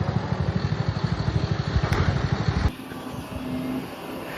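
Excavator's diesel engine running at idle, a fast, even low throb, with a single sharp click near two seconds in. About two-thirds of the way in it gives way suddenly to much quieter outdoor sound.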